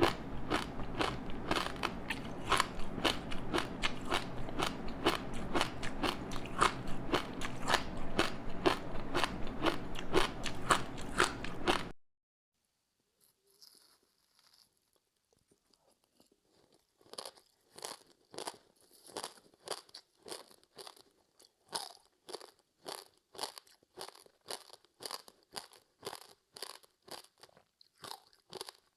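Close-up crunching and chewing of a crispy seaweed-wrapped rice snack: dense, loud crunching that cuts off abruptly about twelve seconds in, a few seconds of near silence, then steady rhythmic chewing at about two crunches a second.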